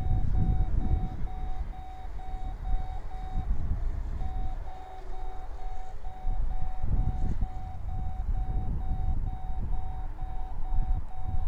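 Strong wind buffeting the microphone in gusts, under a steady rapid electronic beeping that pauses briefly about four seconds in.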